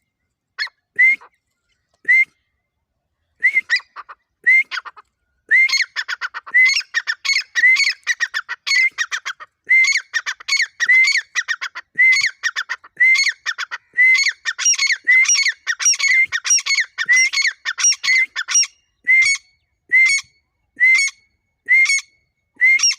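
Irani dakhni teetar, a grey francolin, calling loudly over and over. Short, sharp calls come about once a second. About five seconds in they run into a fast, dense series of notes, then fall back to single calls about once a second for the last few seconds.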